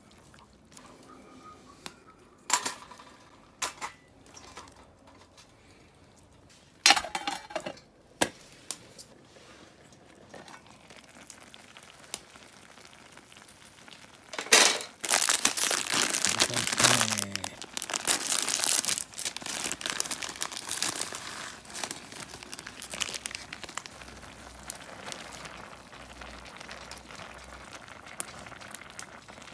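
Plastic packaging crinkling and tearing, with scattered sharp clicks in the first half and a long, loud rustling stretch about halfway through.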